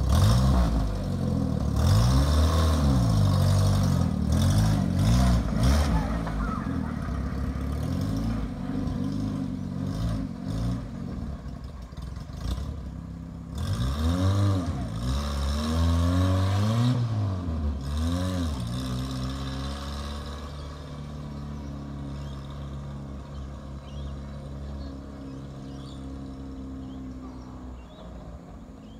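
1939 Austin 8's small four-cylinder side-valve engine pulling away, its revs rising and falling several times in the first two-thirds. It then runs steady and fades away as the car drives off down the street.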